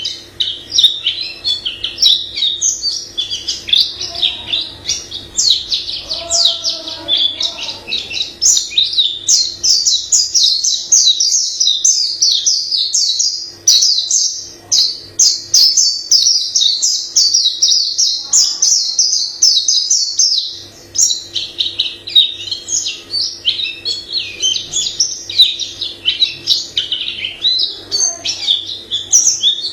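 White-eye singing a long, fast, varied song of high twittering notes, pausing briefly about 13 and 20 seconds in.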